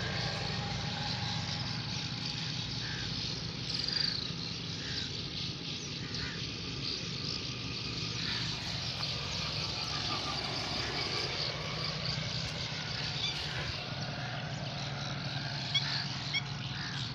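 Swallows twittering in short, scattered chirps over a steady low rumble, most likely traffic on the bridge.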